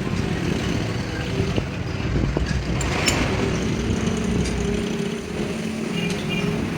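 Steady low mechanical rumble, like a running engine or motor, with a few sharp metallic clicks about two to three seconds in.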